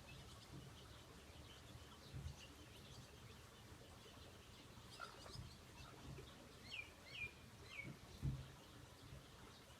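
Faint birds chirping, with three short, clearer falling calls about seven to eight seconds in. Two low thumps, about two seconds in and near the end.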